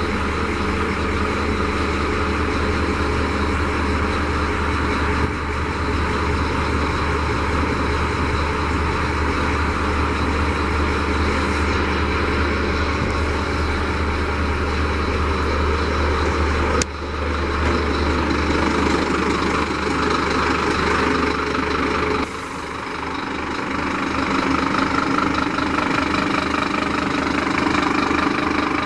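Scania P310 tipper truck's five-cylinder diesel engine idling steadily, with the sound shifting abruptly twice past the halfway point.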